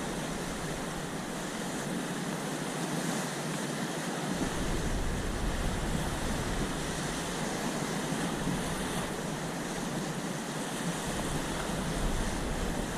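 Sea surf washing steadily, with wind buffeting the microphone from about four seconds in.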